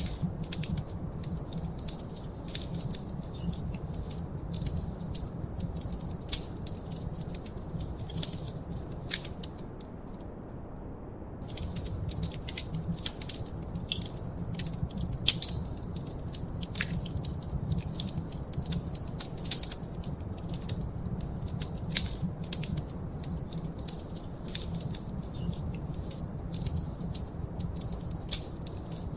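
Wood fire crackling in a fireplace: frequent sharp pops and snaps over a steady low rumble of the flames. The crackling drops out for about a second near the middle, leaving only the rumble.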